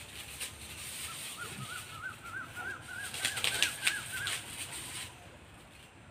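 A bird calling a rapid series of short, arched notes, about four a second, edging up in pitch, from about a second in for some three seconds. A few sharp clicks come near the middle.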